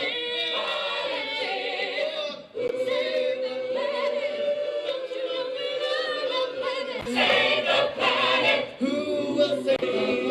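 A group of voices singing together without instruments, holding long notes, with brief breaks between phrases.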